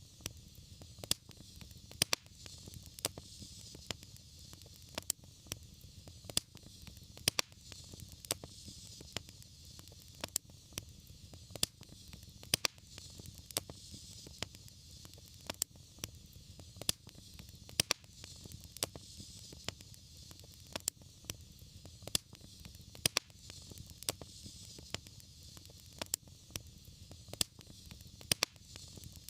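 Wood fire crackling: frequent irregular sharp pops and snaps over a steady low rumble and a soft hiss of the flames.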